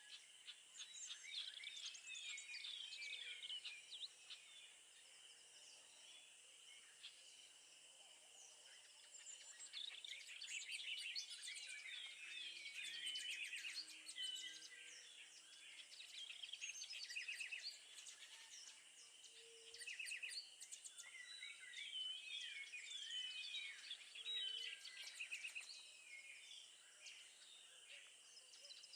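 Several birds chirping and calling, busiest from about ten seconds in, over a steady high-pitched drone.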